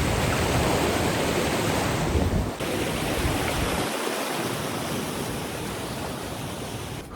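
Steady rushing of a fast river or stream, with an abrupt shift in its sound about two and a half seconds in.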